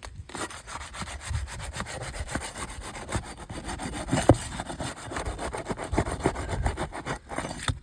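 Steel flat bar scraping and prying under asphalt shingles to work the roofing nails loose, a rapid rasping scrape with a sharp crack about four seconds in. The shingle tears through at the nail, the sign that it cannot be lifted without damage.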